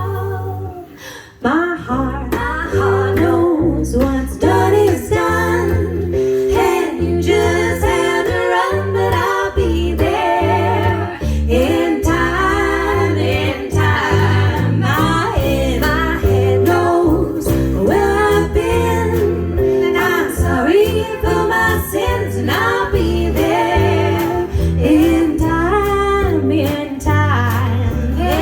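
Live amateur band playing a song: singing, with female voices, over guitar and a steady low bass line. The music dips briefly about a second in, then carries on.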